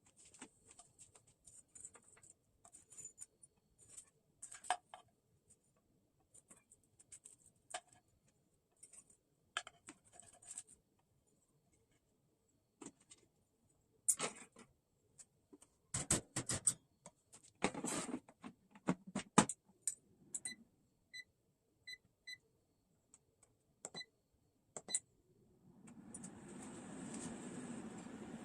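Scattered light clicks and knocks of objects being handled, a few short electronic beeps about three quarters through, then a steady whirring noise that starts near the end.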